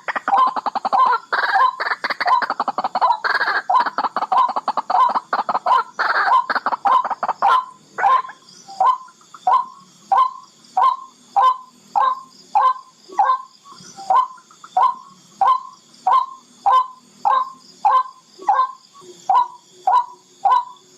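Barred rail calling: a fast run of rapid ticking notes for the first several seconds, then slowing to separate short calls, about one and a half a second.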